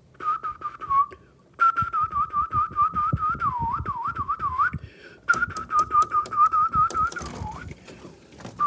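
A person whistling a high, wavering note in three long stretches with short breaks between, over light taps and knocks on window glass.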